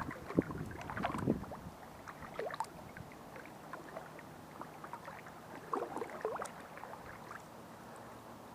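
Kayak paddle dipping and splashing in the water, with irregular splashes and drips, loudest near the start and again about six seconds in.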